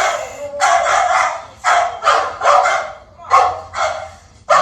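Guard dogs barking in a string of loud, separate barks, about six in four seconds.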